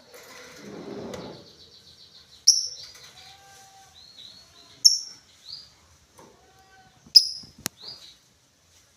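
Lovebird giving sharp, high single chirps: three loud ones about two and a half seconds apart, with softer chirps between them. A low rustling sounds about a second in.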